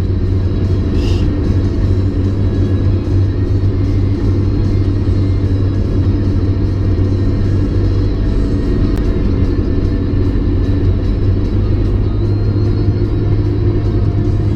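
Steady low drone of a 1994 Mazda MX-5 Miata's 1.8-litre twin-cam four-cylinder and its tyres while cruising at an even pace, with music playing along.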